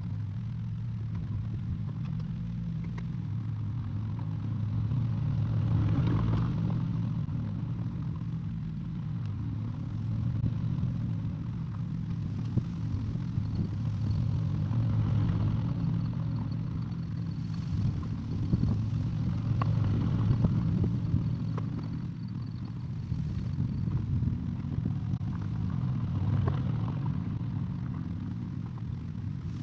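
Excavator engine running steadily with a low hum that rises and falls every few seconds as the machine works, with a few short clanks in the middle.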